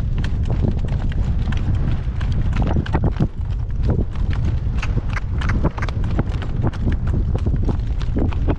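A horse's hooves clip-clopping as it walks, several hoofbeats a second, over a heavy low rumble of wind buffeting the microphone.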